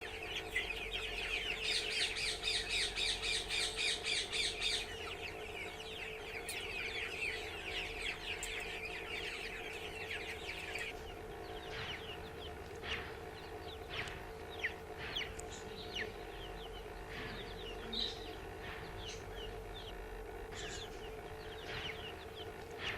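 A group of chicks peeping in a dense chorus, with a loud rapidly repeated call for a few seconds near the start. The chorus thins out after about ten seconds to scattered single cheeps over a steady low hum.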